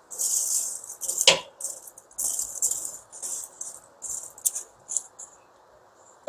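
Burning wood embers being raked and spread across the floor of a cast-iron wood stove's firebox: repeated scraping and rattling of coals, with one sharper knock about a second in.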